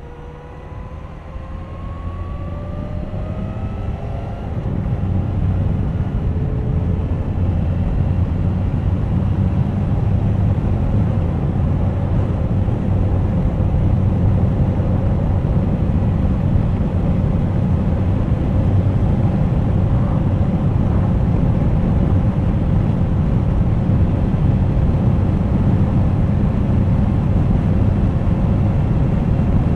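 Suzuki GSX1250FA inline-four motorcycle accelerating, its engine note rising over the first few seconds, then riding at a steady speed with heavy wind rumble over the engine.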